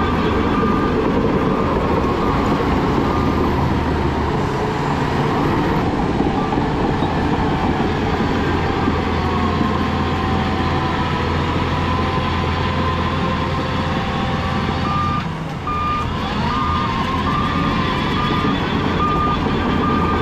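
Heavy diesel earthmoving machinery running with a steady low engine drone. A reversing alarm beeps in an even on-off pattern at the start, then again from about three-quarters of the way through.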